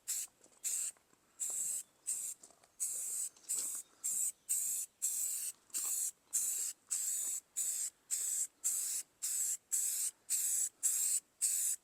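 Rust-Oleum spray paint hissing out in short, evenly repeated bursts, about two a second.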